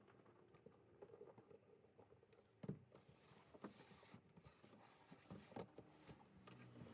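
Faint handling noises: scattered knocks and clicks of objects being moved and set down, with the sharpest knock a little under three seconds in and a brief rustle just after.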